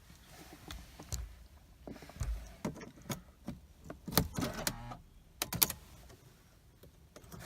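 Keys jangling and a string of sharp clicks and knocks, about half a dozen spread over several seconds, as a car key and the car's controls are worked on a car with a dead battery.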